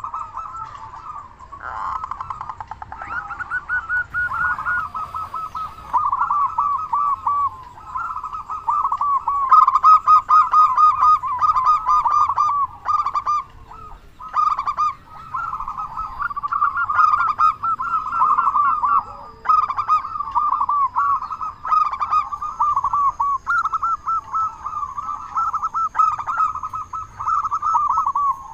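Zebra dove (perkutut) cooing: a near-continuous string of rapid, rolling, trilled coos on much the same pitch, in phrases broken by short pauses.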